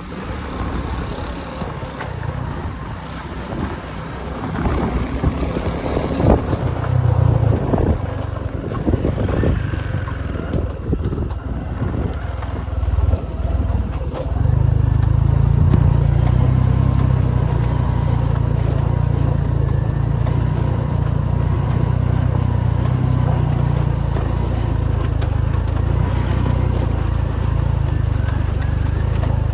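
Motorbike running while being ridden, a heavy low rumble that is uneven at first and turns steadier and louder about halfway through.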